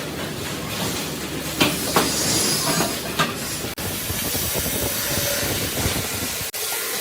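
Metalworking workshop noise: a steady hiss with a few sharp knocks about one and a half to three seconds in.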